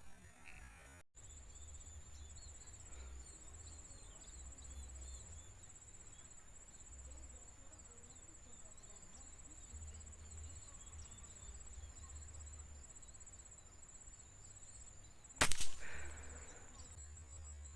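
High, evenly pulsing insect trill over a faint field background with small bird chirps. About fifteen seconds in comes a single sharp crack of a PCP air rifle shot.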